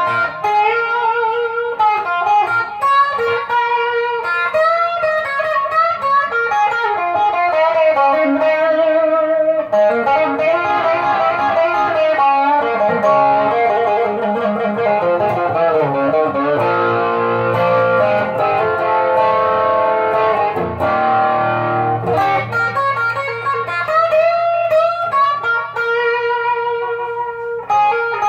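Electric guitar on its bridge pickup, overdriven through a TS9 overdrive pedal into a Boss Katana 50 amp, playing single-note melodic lines with vibrato. The middle stretch turns to fuller chords before single-note lines return near the end.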